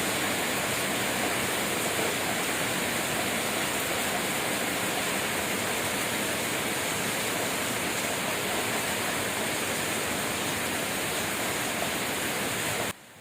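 Rain falling steadily, an even rushing hiss with no single drops standing out; it starts and stops abruptly.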